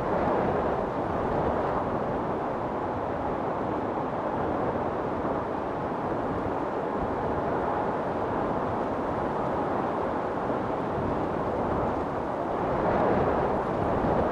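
Strong storm wind blowing steadily, a deep rushing noise that swells in a gust about a second in and again near the end.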